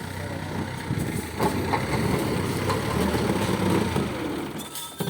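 Vehicle engine running steadily, growing louder from about a second and a half in as if revving under load, then easing off near the end.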